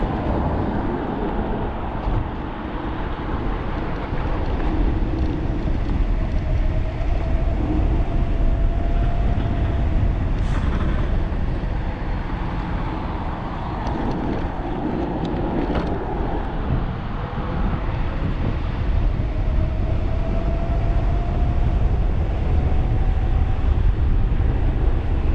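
Wind rushing over the microphone on a fast-moving 1500-watt e-bike, with the electric motor's faint whine climbing in pitch twice as the bike speeds up.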